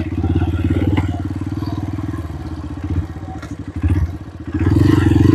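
Motorcycle engine running as it is ridden up a narrow dirt track, easing off about three seconds in and picking up again near the end, with a few knocks and rattles.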